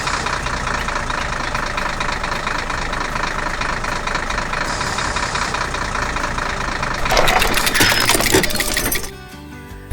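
Engine of a farm machine running steadily, then a louder burst of crackling and crunching about seven seconds in that lasts some two seconds.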